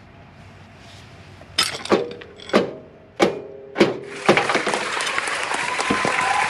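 About six sharp metal-on-metal blows, roughly half a second apart, each with a short ringing tail, as a hammer drives at a part of the motorcycle's rear suspension. From about four seconds in, a steady rushing noise sets in and continues.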